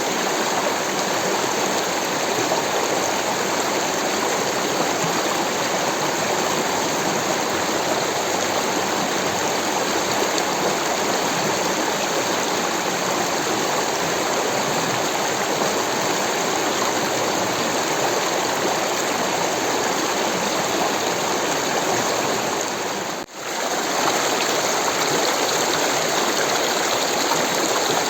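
Rushing water, like a stream or small waterfall, flowing steadily. About five seconds before the end it drops out for a split second, then carries on.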